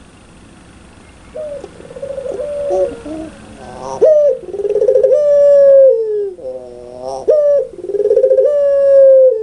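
Puter pelung (ringneck dove) cooing loud and clear. Softer coos start after about a second; from about four seconds in come long, drawn-out coos that drop in pitch at the end, broken by a quick rolling, laugh-like run of notes.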